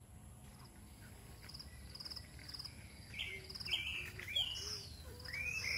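Birds chirping and whistling: a run of short buzzy high chirps, then louder rising and falling whistled notes from about three seconds in.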